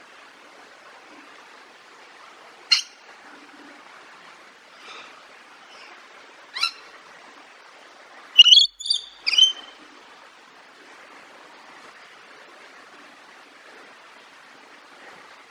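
Birds calling: a few short, sharp chirps, then a loud burst of several calls a little past the halfway point, over a steady soft hiss.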